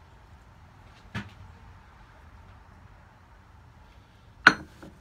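Two sharp knocks of metal handled in a forge shop, a lighter one about a second in and a much louder one near the end followed by a few small rattles, over a steady low background noise.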